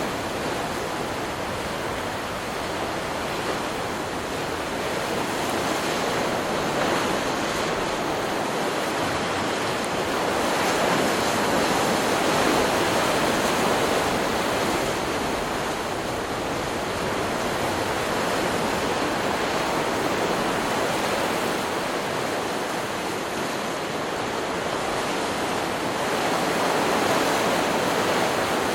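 Stock recording of ocean surf: a continuous wash of breaking waves, swelling louder about a third of the way in and again near the end.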